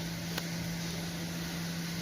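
Steady mechanical hum with an even hiss, and a single click about half a second in.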